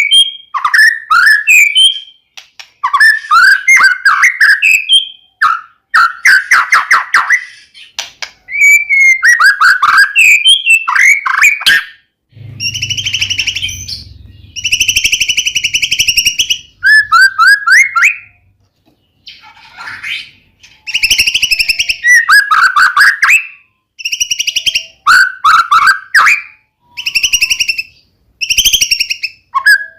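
White-rumped shama (murai batu) singing loud, varied phrases of rapid whistled notes with short pauses between them. From about the middle on, the phrases alternate with harsh, buzzing rattles.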